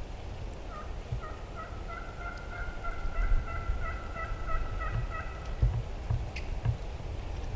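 Turkey calling: a rapid run of short, evenly pitched notes starting about a second in and lasting about five seconds, over a low rumble of wind on the microphone.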